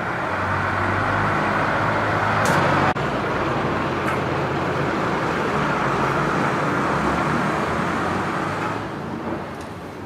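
An engine running steadily, with a noisy mechanical din over a low hum; a brief break about three seconds in, then it fades near the end.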